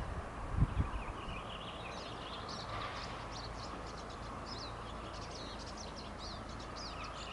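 Small birds chirping and twittering, many short high calls scattered throughout, over a steady low background noise. Two low thumps just under a second in.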